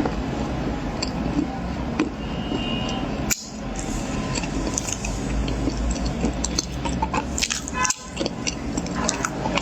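Close-miked eating of corn: crunchy bites and chewing, a run of short crackling clicks over a steady noisy bed, cut off briefly twice.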